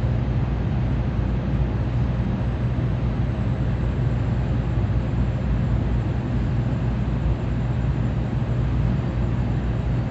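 Steady low rumble and rushing noise heard inside the passenger cabin of a Tokaido Shinkansen train while it runs.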